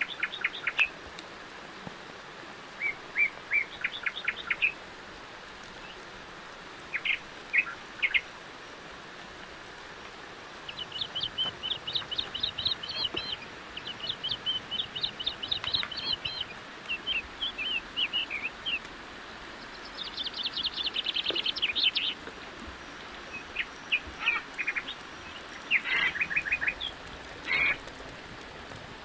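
Birds calling in short, rapid high chirps and trills, in bursts every second or two, over a steady background hiss.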